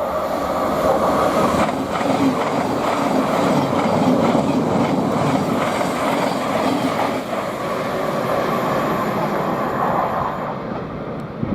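Thameslink Class 700 electric multiple unit passing: steady wheel-on-rail rumble that builds over the first second and fades away near the end.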